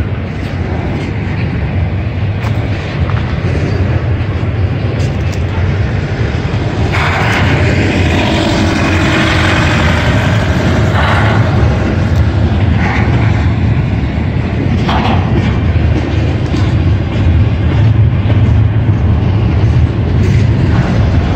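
Freight train rolling slowly past a grade crossing: a steady heavy low rumble, with a stretch of hissing noise partway through.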